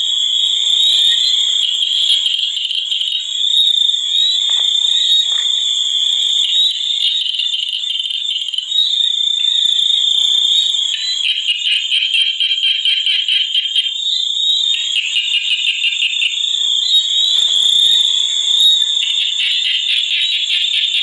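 A chorus of frogs calling in rapid pulsed trills, each lasting a few seconds and overlapping one another, over a continuous high-pitched trill.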